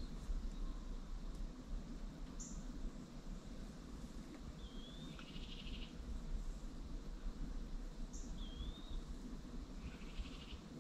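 A songbird singing the same short phrase twice: a thin high note, a wavering whistle, then a short buzzy trill, over a low steady rumble.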